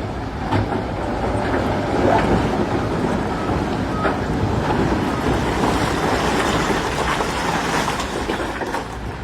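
Heavy earthmoving machinery's diesel engine running steadily under load, with a few sharp knocks over it.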